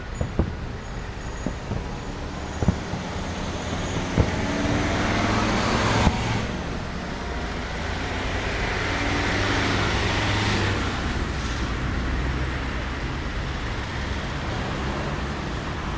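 A few scattered sharp bangs from a fireworks salute in the first few seconds, then a steady rumble of city traffic noise that swells and eases.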